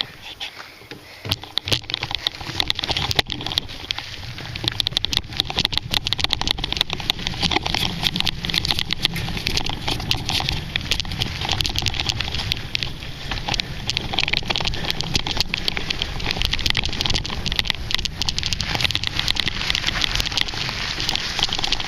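Schwinn bicycle rolling over a rocky dirt trail: a steady clatter and rattle of tyres on stones and the bike shaking, with a low wind rumble on the handlebar-mounted microphone. It picks up after the first couple of seconds as the bike gets going.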